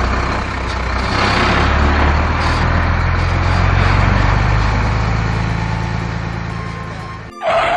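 Vehicle engine sound effect: a motor running with a steady low rumble and a noisy hiss, fading slowly over several seconds, with a short bright burst of sound at the very end.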